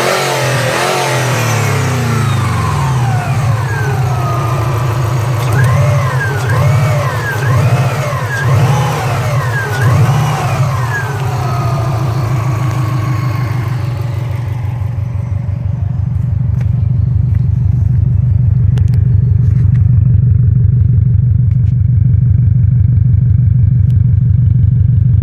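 Subaru EJ205 turbocharged flat-four engine, exhaust run without catalytic converters, revved several times with the pitch rising and falling on each blip. About halfway through it settles into a steady, deep idle.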